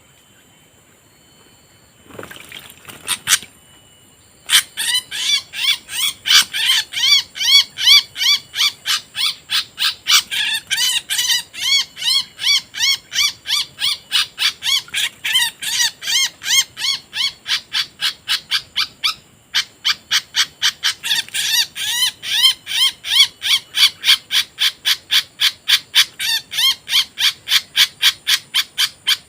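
A bird's call repeated steadily about three times a second, each note rising and falling, with a brief break a little past the middle. A few sharp knocks come shortly before the calling starts.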